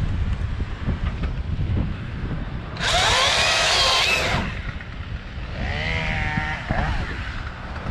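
Wind buffeting the microphone throughout. A chainsaw revs up loudly for about a second and a half, about three seconds in, then gives a shorter, quieter burst about six seconds in.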